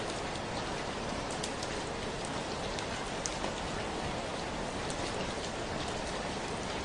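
Steady rainfall, an even hiss with scattered individual drops ticking.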